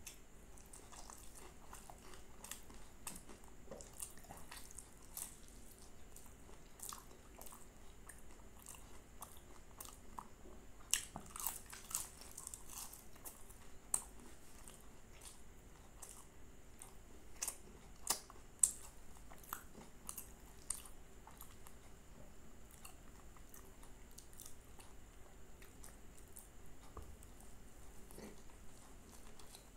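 A person biting and chewing crispy, flaky puff-pastry aloo patties: soft chewing with scattered sharp crunches, bunched in two louder spells about a third and two-thirds of the way through.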